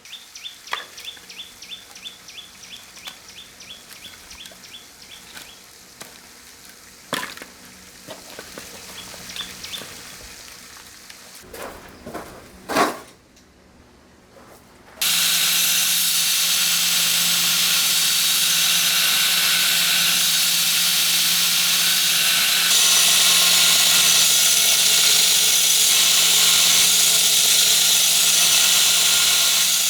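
A few sharp knocks and a quick run of high chirps at about four a second, then about halfway through a workshop machine starts suddenly and runs with a loud, steady hiss and a low hum.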